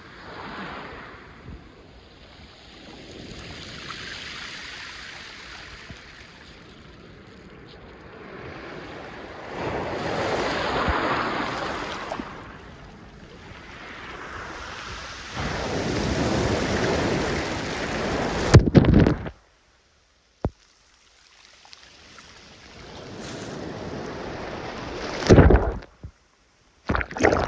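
Sea surf washing onto the shore, the noise swelling and fading every few seconds. After about 18 seconds, louder surges stop abruptly, with short silences in between.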